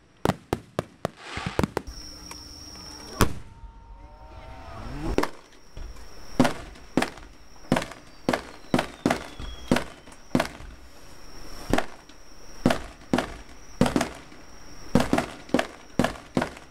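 Aerial firework shells bursting overhead: a quick run of crackling bangs at first, then steady booms about one or two a second, with a rising whistle about five seconds in.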